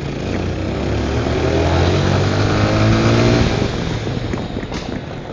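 Honda Tornado 250 single-cylinder motorcycle engine accelerating while riding, its pitch climbing and the sound peaking about three seconds in before it eases off. Wind rush plays over the engine throughout.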